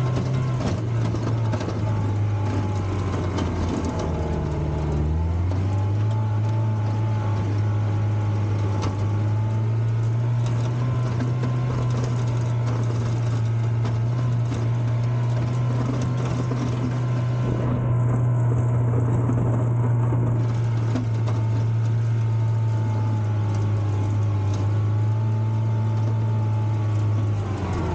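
Volvo four-cylinder gasoline engine of a 1960s baggage tractor running steadily under way. Its note steps up slightly about five seconds in, then holds even.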